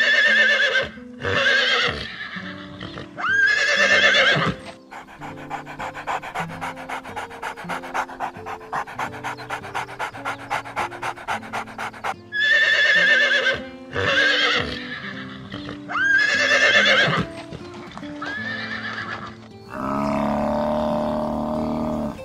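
Horse neighing: loud whinnies three times in the first few seconds and three more times later on, over steady background music. Between them is a long run of fast, even rhythmic pulses, and near the end a low, noisy rumble.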